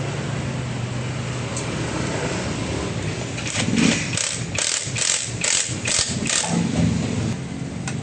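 Honda XRM 125 motorcycle engine running with a steady hum. About halfway through, a run of roughly seven short, quick noisy bursts interrupts it, then the steady running resumes near the end.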